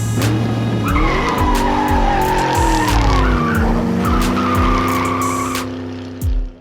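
Car tyre screech sound effect with an engine note under it. It starts about a second in, falls in pitch, then holds until it cuts off near the end, over background music with a steady beat.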